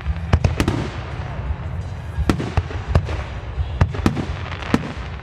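Aerial fireworks shells bursting in a rapid string of sharp bangs, about two a second, over a continuous low rumble.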